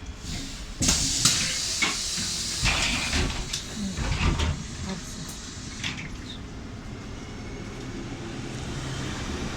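Trolleybus compressed-air system: a loud hiss of released air with several clunks starting about a second in and lasting about two seconds, then the steady rumble of the moving trolleybus.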